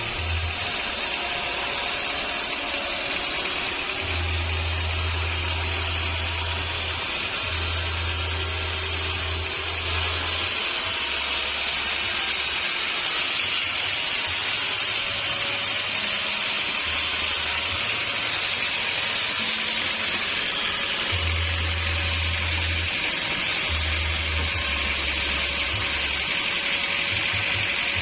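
Sawmill saw running steadily through wood, with background music and its low bass notes coming and going underneath.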